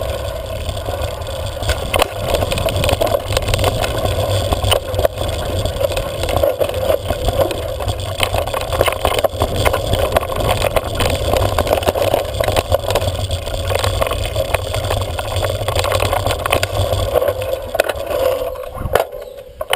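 Wind rushing over the microphone of a camera on a moving bike, with a deep rumble, road noise and scattered clicks and rattles. It falls away sharply near the end.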